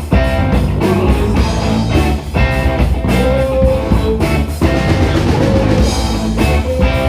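A small live band playing a funky rock number, with a drum kit keeping a steady beat under guitar.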